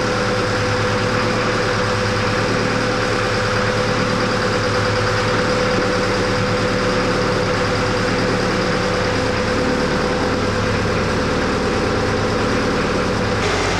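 Canal boat's diesel engine running steadily at low speed, a constant drone with a steady hum, heard from aboard the boat.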